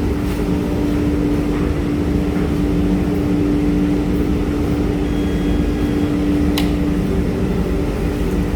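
Washing machine running with a loud, steady electric hum and low rumble, with one sharp click a little over six seconds in.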